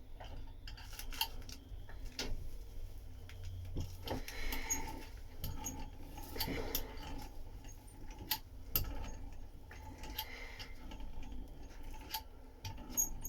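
Hand work on fibreglass cloth: light rubbing with scattered small clicks and taps at irregular intervals, over a low steady hum.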